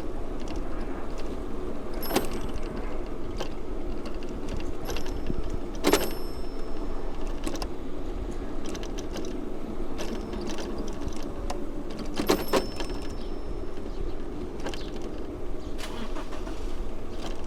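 A bicycle being ridden on city streets: steady road and tyre noise with the frame and parts rattling and clicking over bumps, and sharper knocks about two, six and twelve seconds in.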